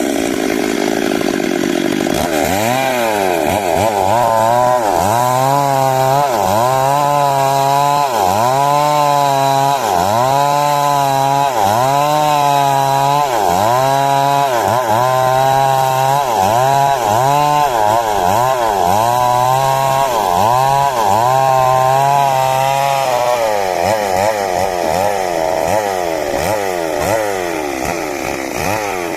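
Two-stroke 382 chainsaw cutting wood under load, its engine pitch dropping and recovering about once a second as the bar is worked through the cut. Past about 23 seconds the rhythm turns uneven and the level eases off a little.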